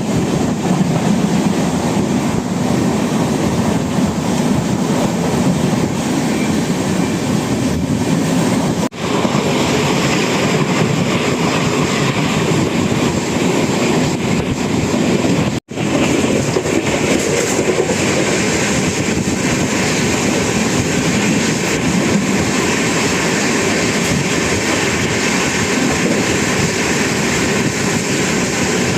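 Express train running at speed, heard from aboard a coach: a loud, steady rush of wheels on rails and passing air. The sound drops out briefly twice, about nine and about fifteen seconds in.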